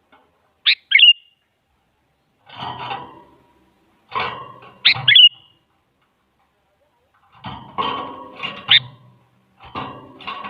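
Sooty-headed bulbul calling: two sharp chirps about a second in, then four short bursts of rougher, chattering calls a couple of seconds apart.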